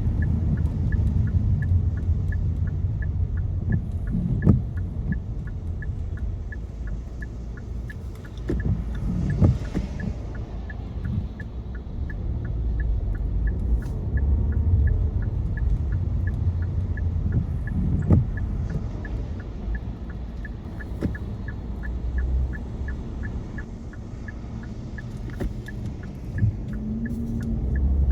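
Car interior road noise while driving on a rain-wet road: a steady low rumble of tyres and engine, with a faint regular ticking about twice a second and a few soft thumps.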